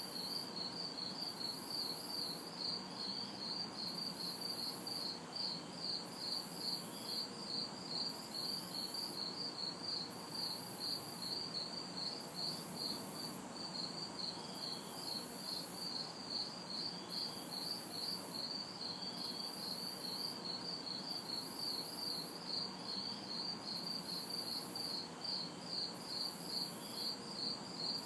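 A chorus of night crickets chirping in a fast, even pulse. A higher, hissing insect call comes and goes about every one to two seconds. Under both is a faint steady hum of distant city traffic.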